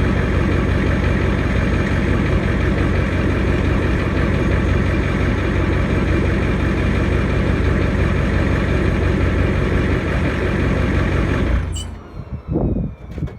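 Turbocharged, straight-piped 7.3L IDI V8 diesel of a 1993 Ford F250 running steadily, then shut off near the end. After it stops, a high whine falls in pitch and there are a few light knocks.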